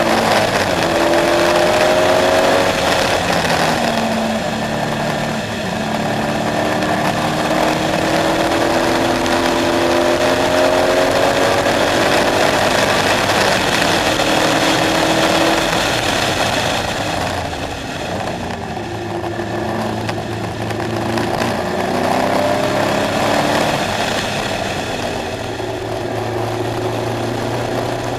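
KTM X-Bow engine under load on track, pitch climbing repeatedly through the gears with shifts in between, easing off twice in the middle and again later before pulling hard again.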